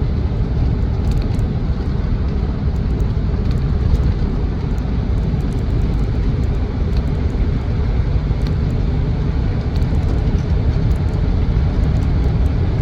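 Land Rover Defender 90's TDCi diesel engine and road noise heard from inside the cab while driving at a steady speed, a dense, even rumble.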